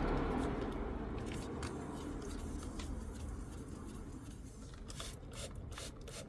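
Hand sanding with fine sandpaper, a soft rubbing and scraping over a low rumble that fades in the first seconds, with a few sharp clicks near the end.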